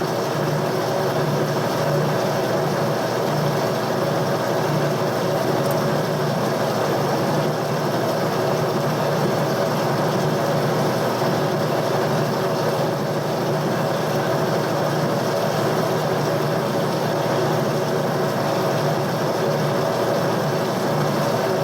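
A metalworking machine tool running steadily, an even mechanical hum with no breaks.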